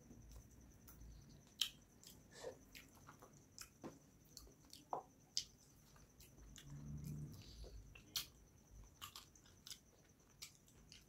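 Close-up eating of rice and fish curry by hand: chewing with irregular wet mouth clicks and lip smacks, over a faint steady high whine.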